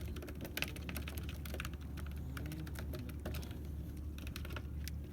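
Irregular sharp clicks and taps over a steady low hum.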